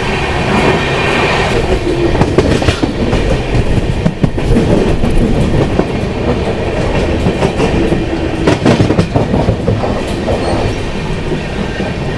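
Indian Railways LHB passenger coach running on the rails at reduced speed, a steady rumble with wheel clatter and scattered clicks over the rail joints, as the train slows on its approach to a station stop.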